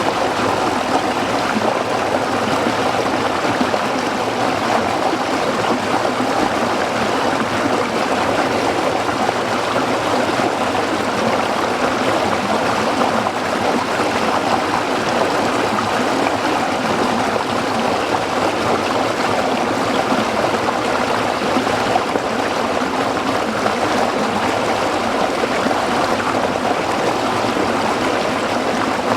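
Stream water running and splashing over rocks, a steady, even rush without pauses.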